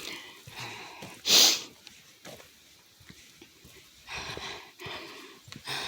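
A person breathing hard close to the microphone while walking uphill, with one loud, sharp breath about a second and a half in.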